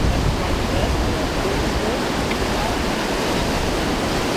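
Whitewater rushing steadily through an artificial rapids course, with faint distant voices.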